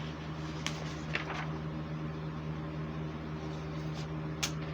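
Steady low mechanical hum, like a fan or appliance running, with a few faint clicks.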